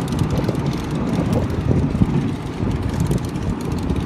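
Low, uneven rumble of wind buffeting the microphone, over the general noise of an outdoor car gathering.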